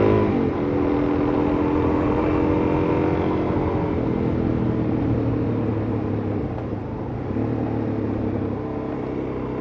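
Suzuki DR-Z400S single-cylinder four-stroke engine running at speed, over a steady rush of wind on the microphone. Its note drops sharply about half a second in, then holds steady.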